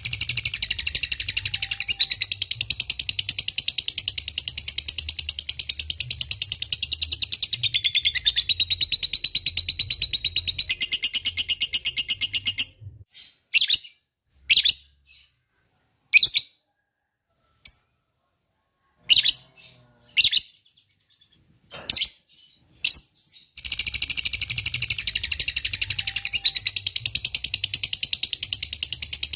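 Lovebird ngekek: a long, rapid, high-pitched chattering trill. About halfway through it breaks off into a stretch of short separate chirps with silences between them, then the long trill starts again near the end.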